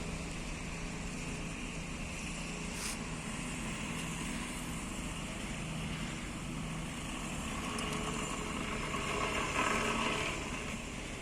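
Outdoor street background with road traffic: a steady hum of vehicles, with one passing louder from about nine to ten and a half seconds in, and a single click about three seconds in.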